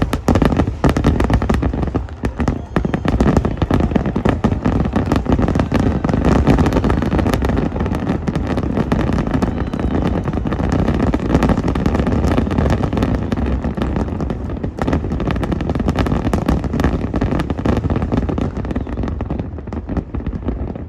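Aerial fireworks display in a dense barrage: many booming bursts and crackles overlapping with hardly a gap, thinning a little near the end.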